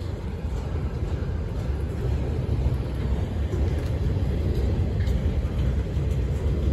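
Manifest freight train rolling past at low speed: a steady low rumble of wheels on rail that grows slightly louder.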